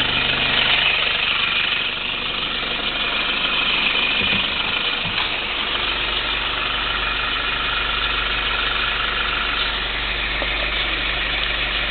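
Mazda SL four-cylinder diesel engine idling steadily during a test run.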